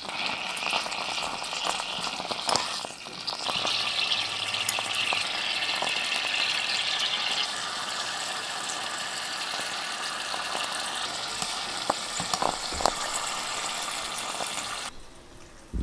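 Food sizzling in a miniature pan: a steady hiss, louder for a few seconds near the start, with a few light clicks. It cuts off abruptly near the end.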